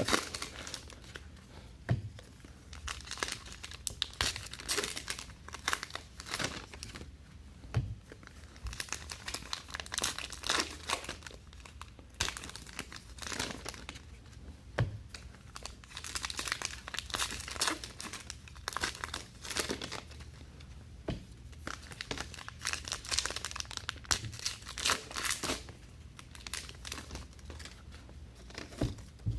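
Trading card pack wrappers being torn open and crumpled, with irregular crinkling and rustling that comes and goes.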